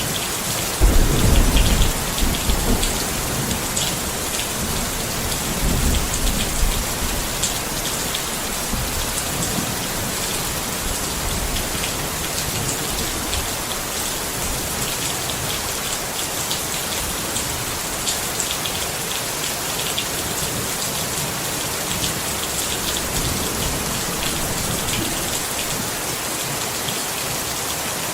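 Steady rain falling on a tent, with low rumbles of thunder about a second in and again around six seconds.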